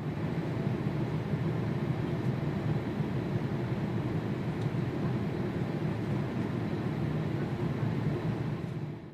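Jet aircraft engines running at Haneda Airport: a steady, even rumble that stops suddenly at the end.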